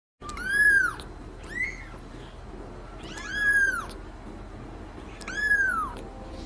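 A cat meowing four times: three long, drawn-out meows with a shorter one between the first two, over a steady low background hiss.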